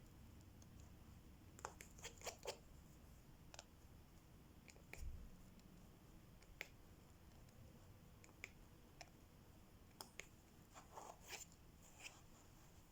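Faint, irregular small clicks and taps of diamond painting: a drill pen picking up resin drills and pressing them onto the sticky canvas, with a soft low thud about five seconds in.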